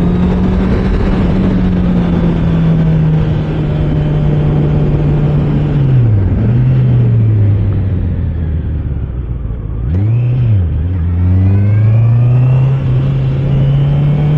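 Honda CBR650R's inline-four engine running under way. Its pitch holds steady, drops about six seconds in, rises and falls quickly in a short rev near ten seconds, then climbs steadily as the bike accelerates.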